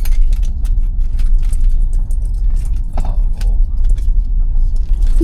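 Steady low road and tyre rumble inside a moving electric car's cabin (a 2021 Tesla Model Y), with scattered small clicks and rustles of cards and small items being rummaged through in a wallet.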